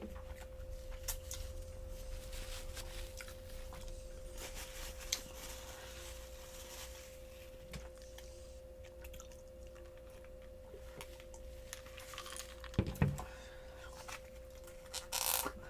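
Close-up chewing and biting of crispy fried chicken glazed with hot honey, with wet crunches and crackles of the breading, over a steady low hum. A few louder knocks come near the end.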